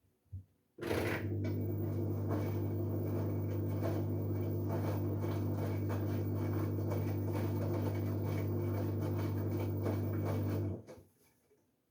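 LG Direct Drive 8.5 kg washing machine partway through a dark wash cycle: after a click, a steady electrical hum with water rushing and sloshing starts abruptly, runs for about ten seconds, then cuts off.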